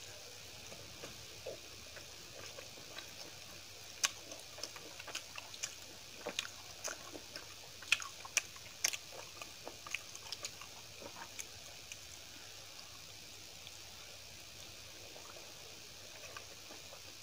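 Close-miked eating sounds: wet chewing and sharp mouth clicks, thickest between about 4 and 11 seconds in, over a steady hiss.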